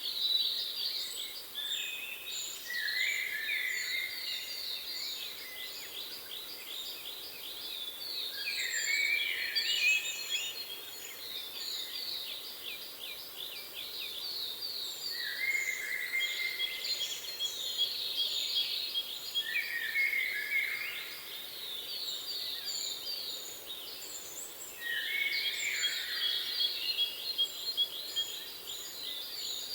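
Several songbirds singing at once: overlapping rapid trills and runs of short, high repeated chirps, with no pause in the chorus.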